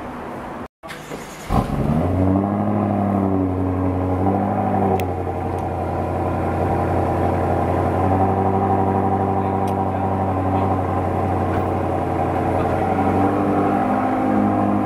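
BMW M5 F10's 4.4-litre twin-turbo V8 with an Akrapovic exhaust starting up: it fires about a second and a half in with a burst of revs, then settles over a few seconds into a steady idle.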